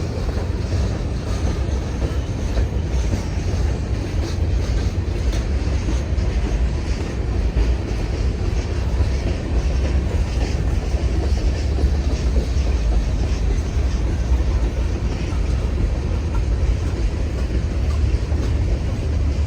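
Freight train cars rolling past: a steady, loud rumble with the clacking of steel wheels over rail joints.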